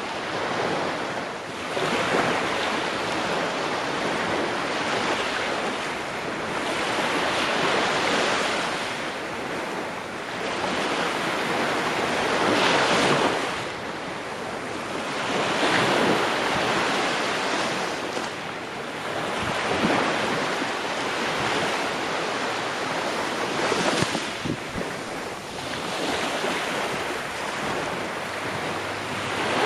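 Ocean waves breaking and washing on the shore, a continuous surf hiss that swells and ebbs every few seconds as each wave comes in.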